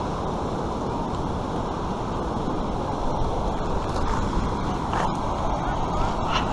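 Steady rushing of white water on an artificial white-water course, with a few faint clicks about four, five and six seconds in.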